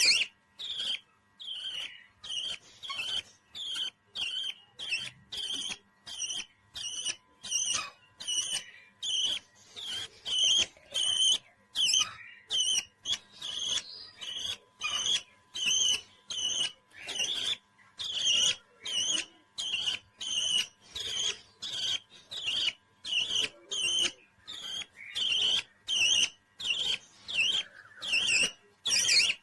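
Parrot chirping in a long, evenly spaced series of short, high calls, about one and a half a second.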